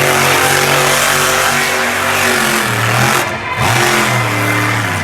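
Monster truck engine running loud and revving up and down, its pitch dipping and climbing again about three seconds in, with a dense hiss of noise over it.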